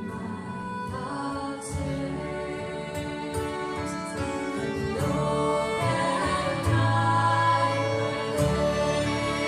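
Live Scottish folk music: a woman singing over fiddles and accompaniment.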